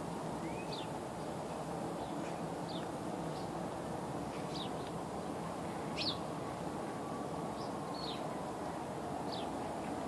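A small bird chirping: short, high, quick chips about once a second, over a steady low background rumble.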